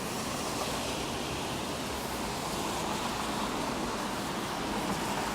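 Steady hiss of a rainy city street: light rain and traffic on wet pavement, with no separate events standing out.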